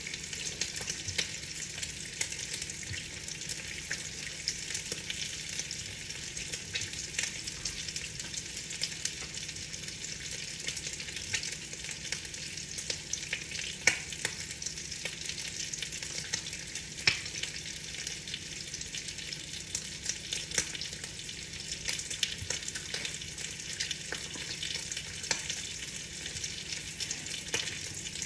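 Steady rain on a window: a dense hiss of fine drops with many small scattered taps. A couple of sharper taps stand out about halfway through.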